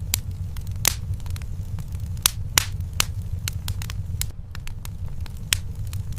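Wood fire burning in a fireplace: sharp, irregular crackles and pops from the burning logs, several louder snaps among them, over a steady low rumble of the flames.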